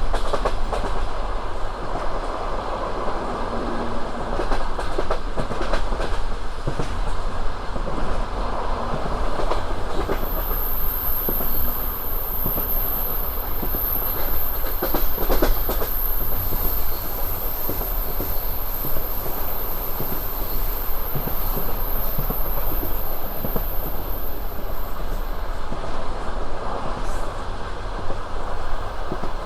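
Passenger train running, its wheels clattering over the rail joints under a steady rumble. A thin, high-pitched whine sounds for about fifteen seconds in the middle.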